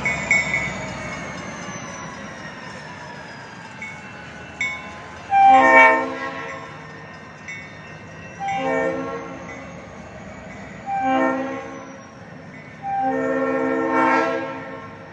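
Leslie S3L three-chime air horn on a former Reading EMD GP40-2 locomotive, sounded in four blasts: three short ones, then a longer final one. Early on, a high whine slowly falls in pitch.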